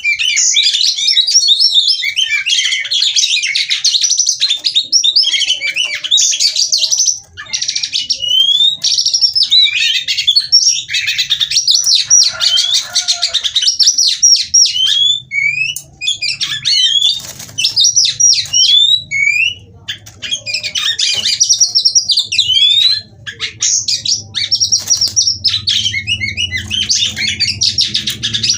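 Female Oriental magpie-robin (kacer) singing a fast, busy song of whistles, chirps and rapid trills in long phrases broken by brief pauses. A faint low hum comes in during the second half.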